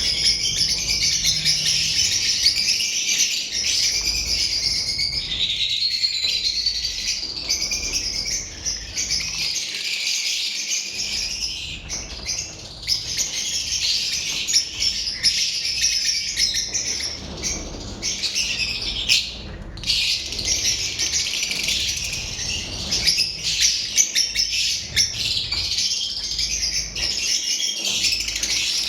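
Many lovebirds chirping and chattering at once in a dense, continuous high-pitched chatter, with a brief lull about two-thirds of the way through.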